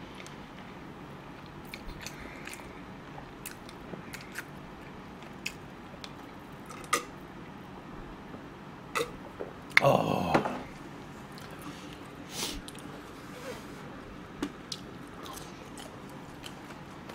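Close-miked chewing and mouth sounds of a person eating, with scattered small clicks. About ten seconds in, a louder vocal sound lasts about half a second.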